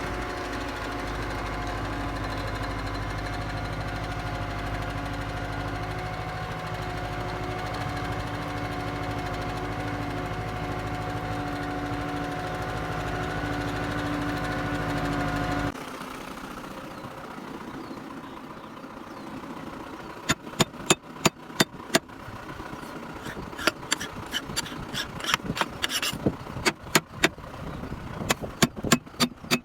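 Tractor's diesel engine running steadily under load while ploughing. It cuts off suddenly about halfway through, giving way to a quieter background with a series of sharp clicks and knocks.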